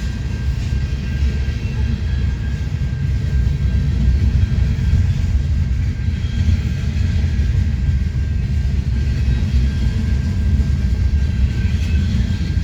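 Freight train of tank cars rolling past at the crossing: a loud, steady rumble of steel wheels on rail.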